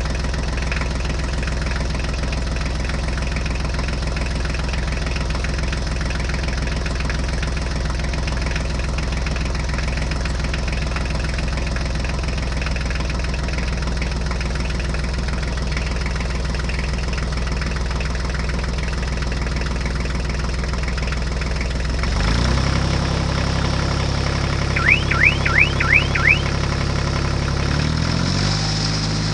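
An engine running steadily, its pitch dropping to a lower, rougher note about 22 seconds in and shifting again near the end. A quick run of five short, high, rising chirps comes about three seconds after the drop.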